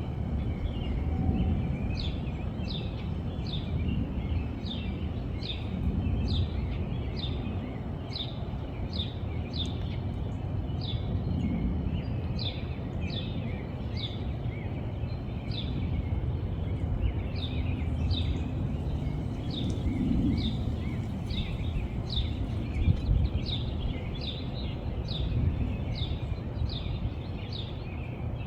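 A bird chirping over and over, about two short falling chirps a second, over a steady low rumble of background noise.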